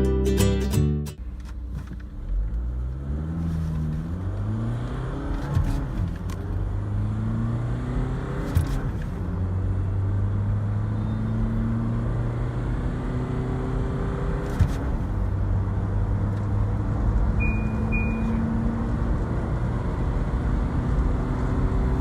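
Mahindra Marazzo's 1.5-litre diesel engine accelerating hard through the gears, its pitch rising in each gear and dropping back at each shift, then climbing slowly in a higher gear. Two short high beeps sound near the end.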